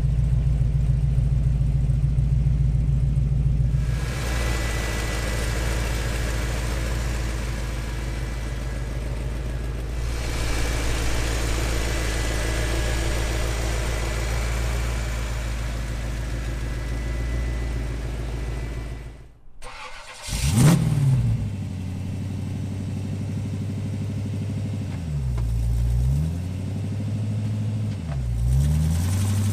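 Crate GM 350 V8 in an International Harvester Scout II idling steadily. About two-thirds of the way through the sound cuts out briefly, then the engine is started with a quick rev and settles back to idle. It dips in pitch twice and rises again at the very end.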